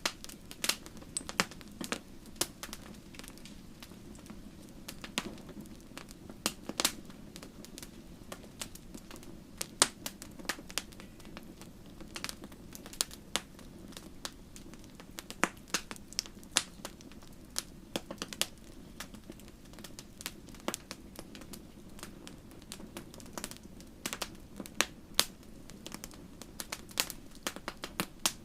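Wood fire burning in a fireplace: sharp, irregular crackles and pops, several a second, over a soft steady rumble of the flames.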